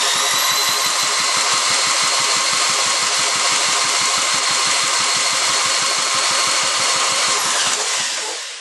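Electric drill run at full speed for about eight seconds to spin over an antique Ironhorse engine. Its whine rises as it spins up and falls as it stops, with a rapid pulsing underneath. The engine does not fire.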